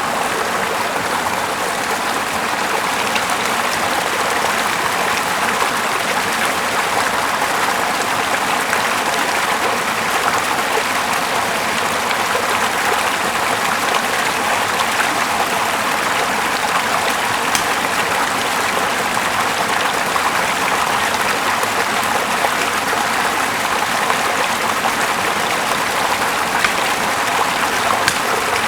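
Small river flowing steadily, an even rush of moving water.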